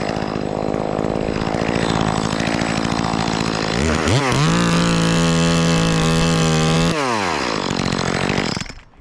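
Chainsaw running, then revved to full throttle about four seconds in and held steady at a high pitch for about three seconds before dropping back down. The sound cuts off abruptly shortly before the end.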